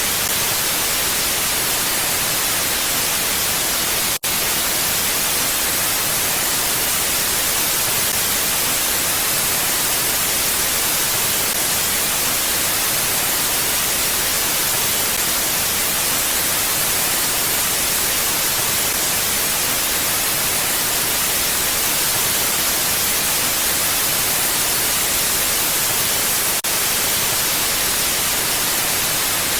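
Steady, even hiss of mountain wind ambience, brightest in the highs and without gusts, with a momentary gap about four seconds in.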